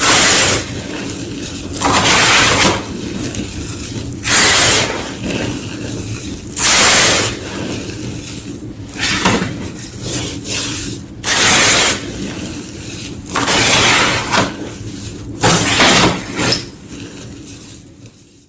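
Soft, powdery white gym chalk being crunched and crushed in a series of loud crunches, one about every two seconds, with a steady crumbling crackle between them that fades away near the end.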